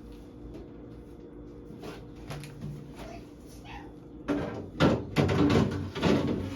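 Refrigerator contents and shelves being put back in place: scattered light knocks, then a quick run of loud clunks and clatters starting about two-thirds of the way through.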